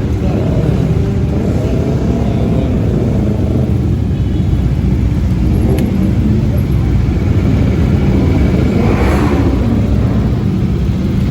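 Motorcycles running on the road, a steady loud rumble of engines mixed with wind buffeting the microphone, with a brief rising sound near the end.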